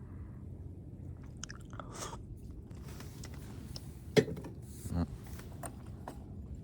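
A person chewing food close to the microphone, with crunchy bites and small clicks. There is a sharp click about four seconds in and a dull thump about a second later.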